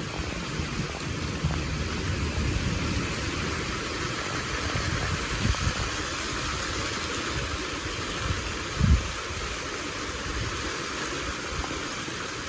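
Heavy rain falling steadily, with a low rumble underneath and a short low thump about nine seconds in.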